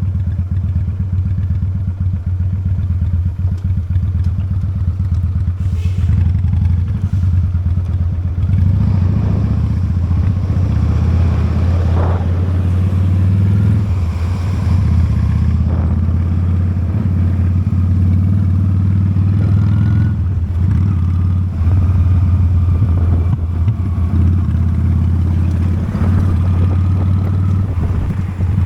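Honda Steed motorcycle's V-twin engine running steadily at riding speed, a low drone that gets louder about eight seconds in.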